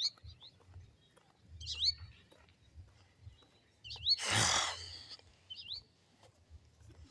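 A bird giving short chirps that sweep upward in pitch, repeated about every two seconds. About four seconds in comes a brief noisy rush, the loudest sound.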